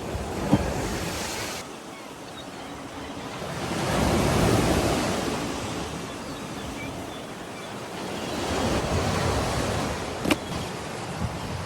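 Sea surf breaking and washing up the shore, swelling twice, with wind buffeting the microphone. Two short sharp clicks stand out, one just after the start and one near the end.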